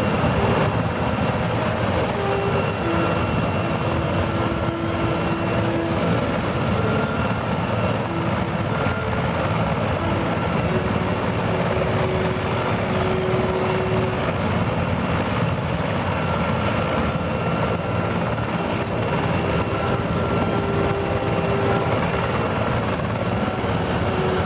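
Sikorsky CH-54A heavy-lift helicopter running: its turbines and rotor make a steady, loud rush, with faint whine tones that come and go.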